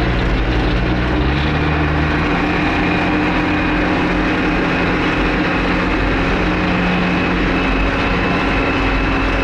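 A John Deere rubber-tired wheel loader's diesel engine runs steadily while the machine drives along the road. Its note rises a little between one and two seconds in, and a faint steady whine runs above it.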